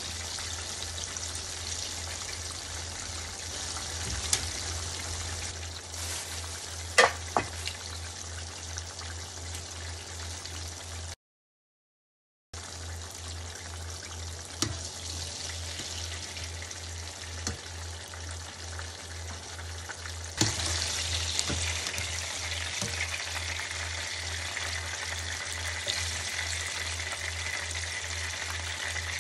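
Potato-starch-coated eggplant pieces deep-frying in oil in a frying pan, a steady sizzle with a few sharp clicks. The sound cuts out briefly near the middle, and the sizzle grows louder about two-thirds of the way through.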